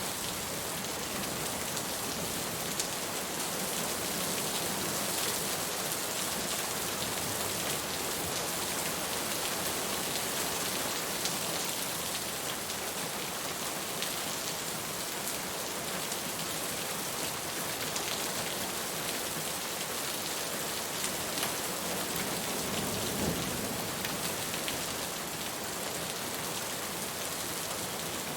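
Steady rain falling on a hard surface, a continuous hiss with many small drop ticks.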